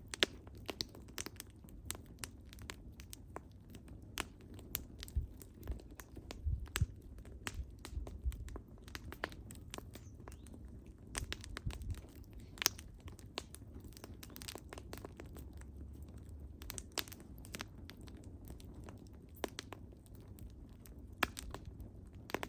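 Wood fire crackling: irregular sharp pops and snaps from burning wood, some louder than others, over a steady low rumble.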